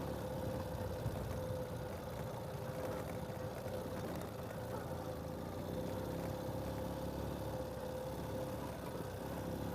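Ural sidecar motorcycle's flat-twin engine running steadily as it rides a dirt track, with a steady whine held at one pitch on top.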